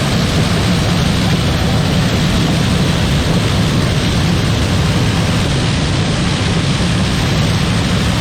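Heavy harvest machinery running steadily: a low engine drone under an even rushing noise, unchanging throughout.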